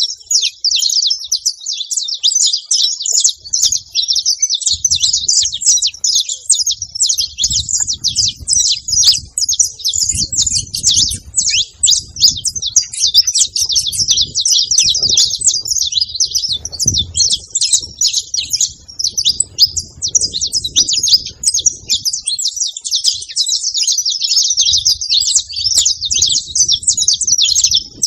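A group of saffron finches (canários-da-terra) chirping and singing together in a dense, unbroken stream of high, rapid notes. A faint low rumble comes and goes underneath.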